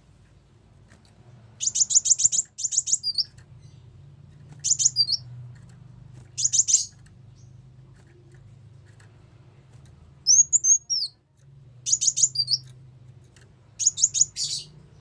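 Sunbird calls played as a lure: about six short bursts of rapid, very high chips, with a pair of down-slurred notes about ten seconds in, over a faint low hum.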